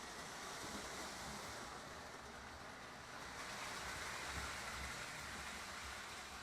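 Lionel model trains running on the layout: a steady whir and rumble of motors and wheels on the track, swelling slightly partway through.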